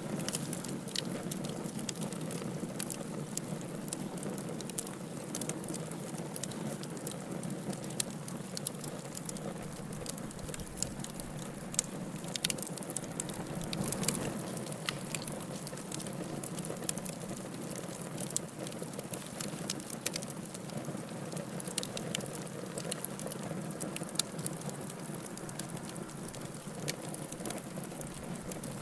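Wood fire burning in a fireplace: a steady low rush of flames with frequent sharp crackles and pops scattered irregularly, a few louder snaps near the middle.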